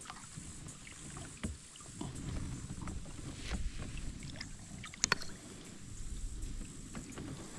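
Kayak on the water: a low rumble of water and handling against the hull, with scattered small knocks and clicks, the sharpest about five seconds in.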